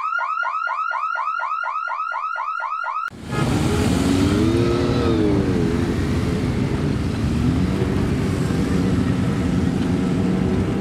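A rapidly repeating rising electronic chirp, about four a second, like a car alarm. It cuts off after about three seconds and gives way to a group of motorcycles riding slowly past, their engines running and rising and falling in pitch.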